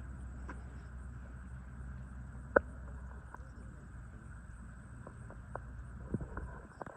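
Cirrus SR22 cockpit sound in flight: a steady low drone of engine and airflow with a faint high steady whine, broken by scattered sharp clicks, the loudest about two and a half seconds in.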